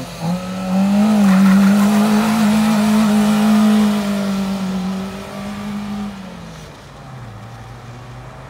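Fiat Punto hatchback's engine revved hard as the car accelerates away, climbing in the first second and held at high revs for several seconds. It then drops back to a low idle-like note near the end.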